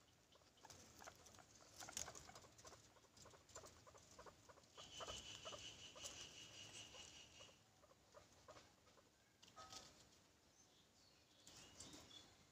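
Guinea pigs moving about, a faint patter of small clicks and rustles. A steady high-pitched call runs for about three seconds near the middle.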